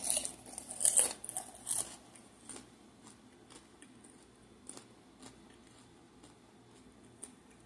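A mouthful of kettle corn being chewed: a few loud crunches in the first two seconds, then fainter, scattered crunching clicks.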